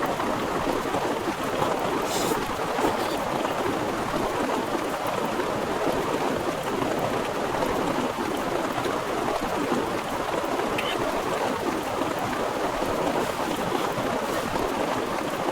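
Heavy rain falling steadily: an even, dense hiss, with a few faint ticks of drops here and there.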